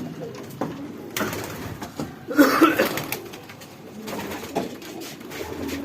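Racing pigeons cooing in their loft, a low, warbling sound that is loudest about halfway through, with a few sharp knocks mixed in.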